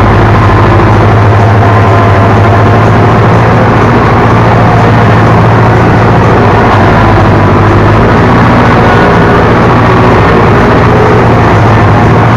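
Ursus C-360 tractor's four-cylinder diesel engine running steadily while pulling a plough: a loud, even drone.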